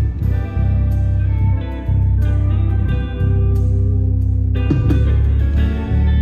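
Live band playing an instrumental passage: guitar over a steady bass line and drums, with regular cymbal strikes.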